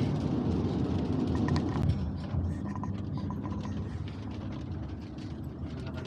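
Road noise inside a moving car: a steady low rumble that eases about two seconds in.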